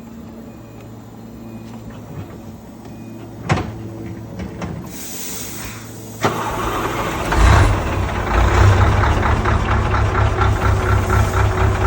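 A Scania truck's diesel engine starting about six seconds in, then idling with an even, strong pulse, running with its muffler removed. Before it starts there is a steady low hum and a single click.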